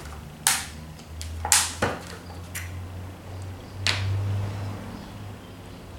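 Small containers and a syringe handled for measuring out oil and kerosene: a handful of sharp clicks and knocks, with a faint low hum underneath.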